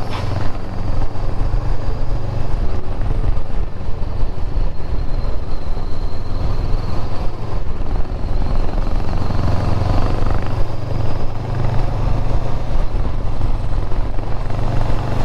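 Motorcycle engine running steadily on the move, with wind noise over the microphone.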